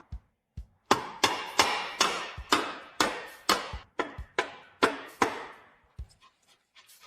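Rapid series of about a dozen sharp hammer-like strikes, each ringing out briefly, with a few fainter taps near the end; music plays underneath.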